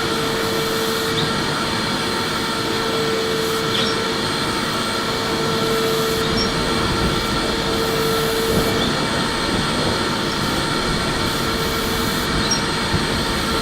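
Electric vacuum cleaner running steadily: a dense rushing noise with a humming tone that fades out about two-thirds of the way through.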